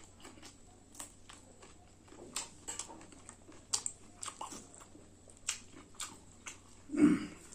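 Close-miked eating sounds: chewing with irregular wet mouth clicks and smacks. There is a short, louder voice-like sound about seven seconds in.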